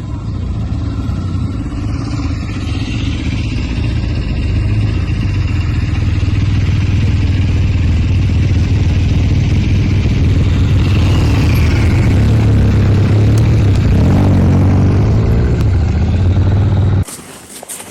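Motorcycle engine running as the bike rides along, with a steady rush of noise over it. It grows louder over the first several seconds, then cuts off abruptly near the end.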